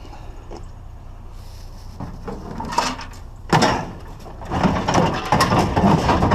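Clattering and scraping of hard objects being handled, loudest in the second half, over a low steady hum.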